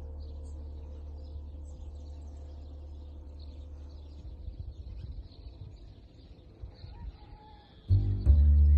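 Small birds chirping over a low rumble that turns gusty partway through, like wind on the microphone. Loud music comes in near the end.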